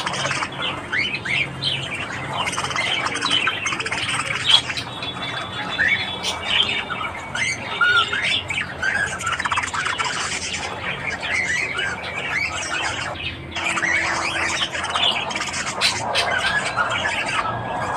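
A group of budgerigars chattering: many overlapping warbles, chirps and squawks, dipping briefly a little past the middle.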